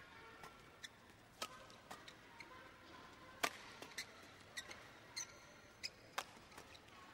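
Badminton rally: rackets striking the shuttlecock in a quick, irregular series of sharp cracks, the loudest about three and a half seconds in, with a brief squeak about five seconds in.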